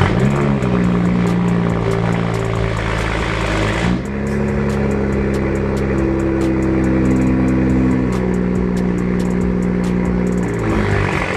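BMW 335i's N55 turbocharged straight-six running through a fully straight-piped exhaust (catless downpipe, resonator and muffler deleted). It makes a loud, steady drone whose pitch steps to a new level about four seconds in and again near the end.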